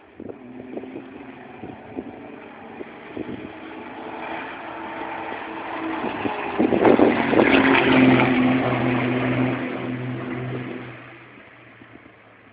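Diesel Formula Truck racing truck driving past on the track: its engine grows louder over several seconds, is loudest about seven to eight seconds in, then fades away.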